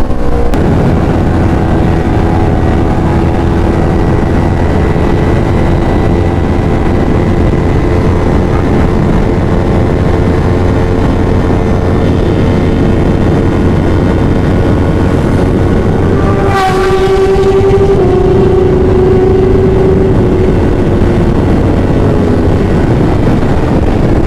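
Yamaha R3's 321 cc parallel-twin, breathing through a full-system Devil Evolution exhaust with the dB killer removed, running loud and steady at high revs during a highway run, with heavy wind rush. About two-thirds of the way through, the engine note breaks briefly and shifts in pitch, as at a gear change.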